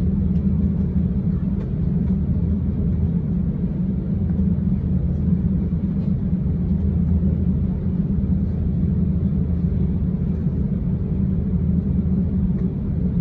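Steady low engine drone with a constant deep hum, unchanging in level.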